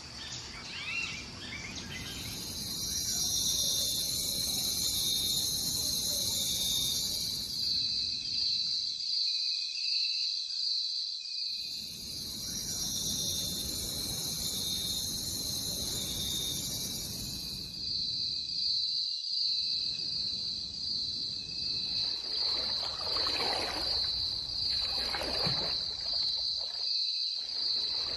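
Insect chorus: a steady, rhythmically pulsing shrill trill, joined twice by a higher buzzing that holds for several seconds and cuts off, over a low background rumble.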